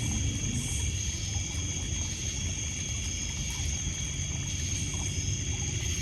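Crickets and other night insects trilling steadily in several high pitches over the low wash of water lapping on a pebble beach, with a few faint crackles from a wood fire.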